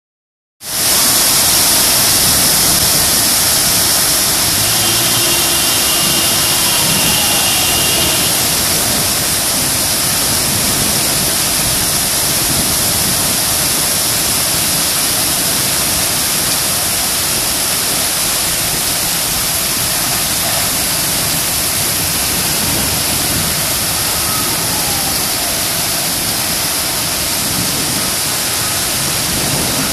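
Heavy rain falling, a steady loud hiss of water.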